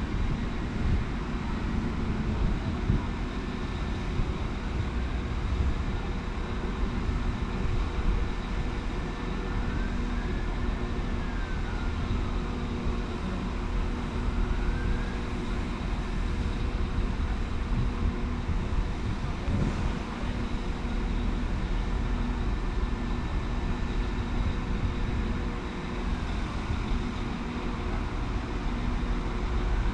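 A train running at a station platform: a steady low rumble with a constant hum, and a faint whine that slowly rises and falls every few seconds.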